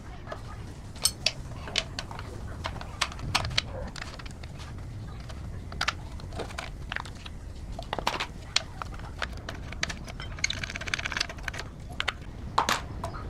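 Irregular clicks and knocks of parts and tools being handled, over a low steady hum, with a brief ringing tone about ten and a half seconds in.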